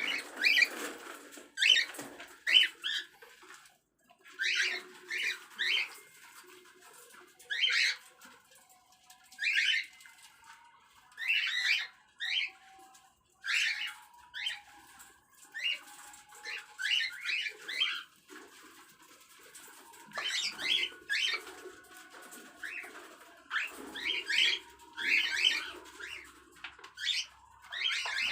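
Cockatiels chirping and squawking, short sharp calls in quick clusters repeating every second or so.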